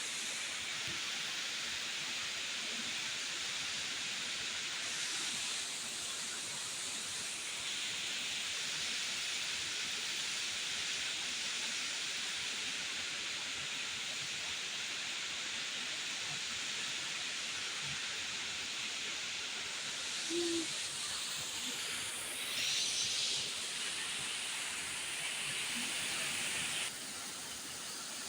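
Waterfall rushing: a steady hiss of falling water that steps up and down in strength a few times and drops near the end.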